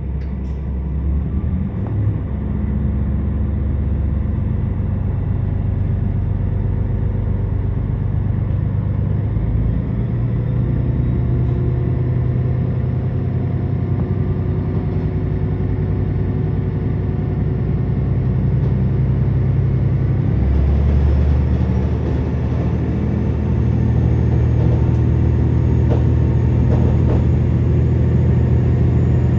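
Interior of a KiHa 47 diesel railcar under way: the diesel engine runs under the floor with a low, steady drone over the rumble of wheels on rail. The engine note shifts a few times, about a second in and again about two-thirds of the way through, as the level slowly rises while the train gathers speed.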